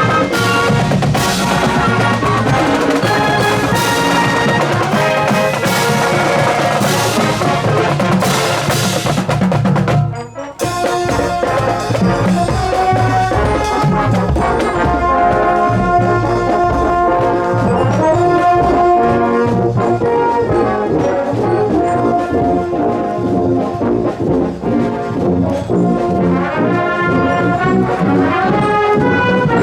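Marching wind band playing: trombones and trumpets over drums and cymbal crashes. About ten seconds in, the music breaks off briefly, then the brass resumes with held chords.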